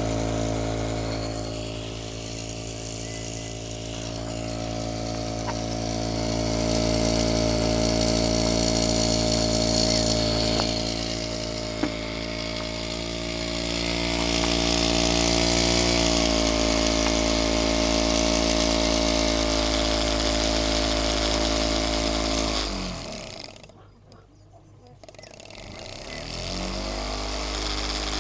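Solar Stirling engine running with a steady mechanical hum. About 23 seconds in, it dips in pitch and fades almost away, then comes back up to speed.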